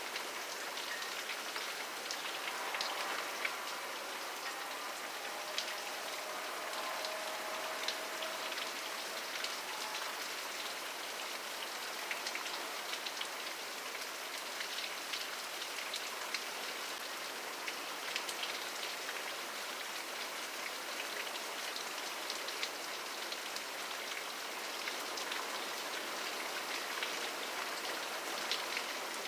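Steady rain falling, a dense even hiss with scattered sharp drop hits ticking through it. A faint tone or two sounds underneath during roughly the first third.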